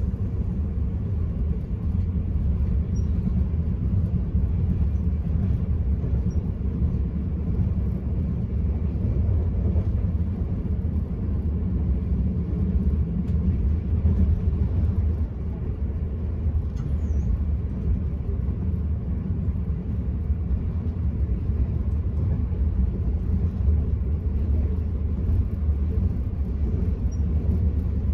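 Enterprise passenger train running at speed, heard from inside the carriage: a steady low rumble of wheels on the track with no breaks.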